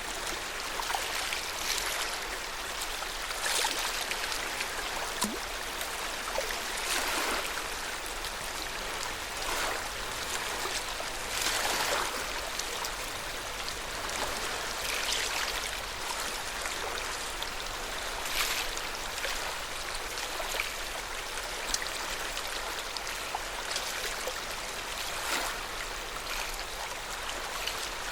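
Lake water rippling and splashing steadily, with a brief swell every two to four seconds.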